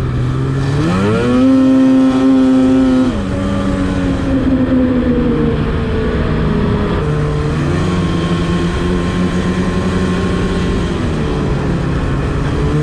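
Snowmobile engine revving up about a second in, holding high for a couple of seconds, then dropping back and running on at lower, uneven revs.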